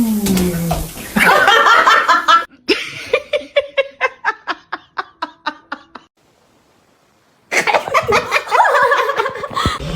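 A person laughing: a burst of laughter, then a run of short, evenly spaced laughs that fade away. After a brief drop to near silence the laughter starts up again.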